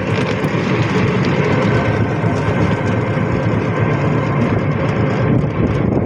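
An auto-rickshaw on the move: steady, loud running and road noise.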